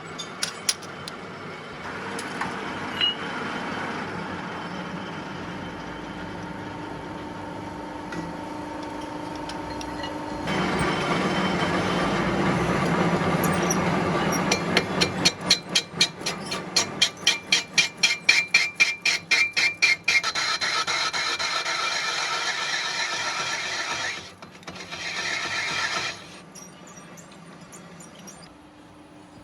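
Metalworking machinery running with a squeal. Partway through, a fast, even series of strikes comes in, about three a second for several seconds, and then the machine noise cuts off near the end.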